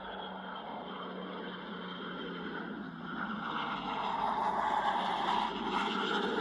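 Roar of a jet fighter's engines heard from the ground, swelling steadily louder about halfway through as the aircraft approaches.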